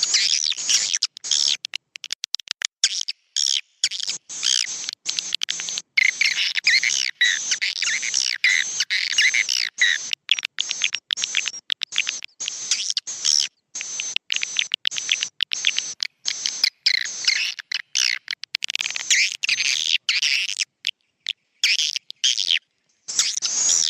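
Edible-nest swiftlet 'inap' roosting lure call: many swiftlets twittering in dense, rapid, high chirps, in quick bursts with brief gaps. This is the call played in swiftlet houses to make swiftlets settle and stay. The chirping thins out for a moment near the end, then picks up again.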